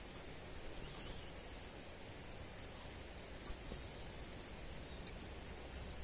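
A small bird giving short, very high chirps at irregular intervals, about seven in all, the loudest near the end, over a faint outdoor background hiss.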